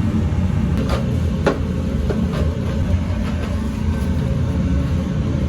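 Steady low mechanical rumble with a few light clicks and knocks in the first half.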